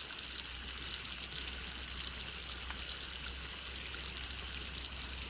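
Night insects, crickets, trilling in a high pulsing chorus, about two pulses a second, over a low steady hum.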